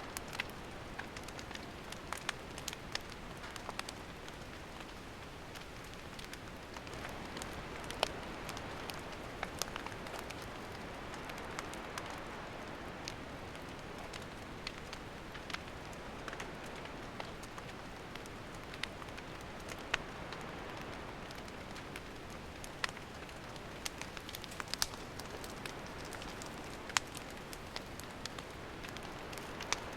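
Wood campfire burning: a steady hiss with frequent irregular sharp crackles and pops from the burning wood.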